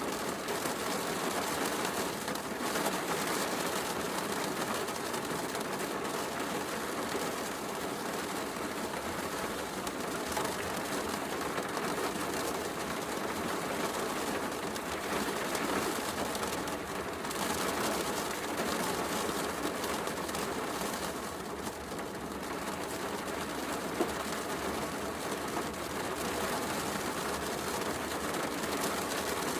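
Steady heavy rain, a dense even hiss, mixed with the soft crackle of a wood fire. One sharper pop from the fire stands out late on.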